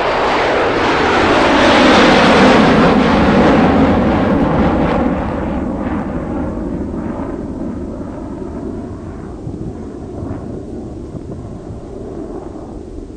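A passing vehicle's loud rushing engine noise. It swells to a peak about two seconds in with its pitch falling, then slowly dies away.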